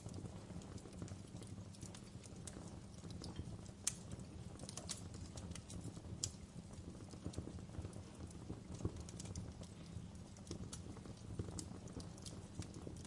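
Wood fire in a fireplace crackling: a steady low rumble of flames with irregular sharp pops and snaps, a louder pop about four seconds in.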